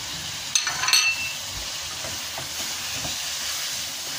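Chicken and tomato curry sizzling in a wok, a steady frying hiss, with two short ringing clinks about a second in.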